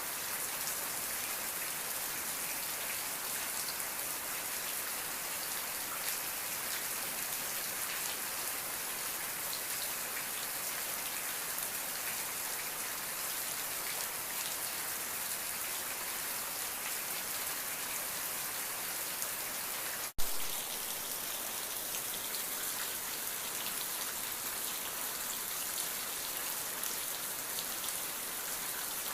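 Steady rain falling, a dense even patter of drops. About two-thirds of the way through the sound cuts out for a split second and comes back with a sharp click.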